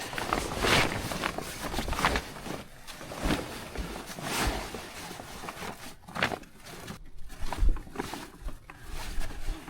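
Old sailcloth rustling in a series of separate swishes as it is handled and looked over, with a few low thumps.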